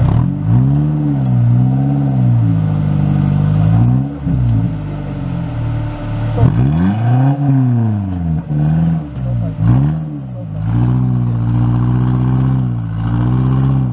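Off-road 4x4's engine revving hard and easing off again and again, the revs climbing and falling every second or two with brief drops where the throttle is lifted.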